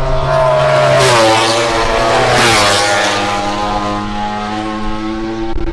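MotoGP racing motorcycles passing at speed, their engine note high and loud, then dropping in pitch as they go by, with a further bike's engine still audible afterwards.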